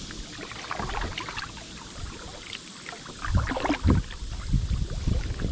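Kayak or canoe paddling on a river: paddle blades dipping and splashing in the water in irregular strokes. A louder low rumble joins in about three seconds in.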